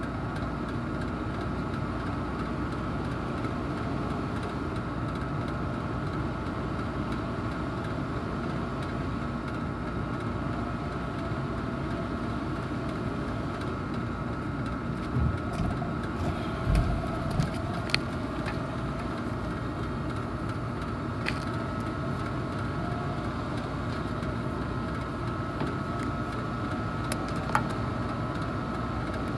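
Steady hum of a running package air-conditioning unit, with a constant tone over it. A few small clicks and knocks come about halfway through and once near the end.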